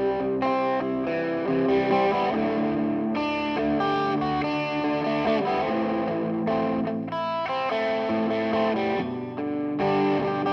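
Electric guitar played through a tube-screamer-style overdrive and a short, fast digital delay, giving a full, lightly distorted tone. Ringing chords change every second or so.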